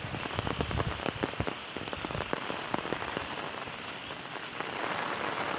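Heavy rain falling, with many separate drop hits close by. About four and a half seconds in it turns into a denser, steadier hiss.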